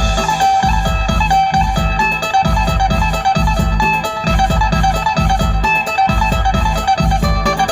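Phin, the Isan plucked lute, playing a busy picked melody over a steady recurring bass beat.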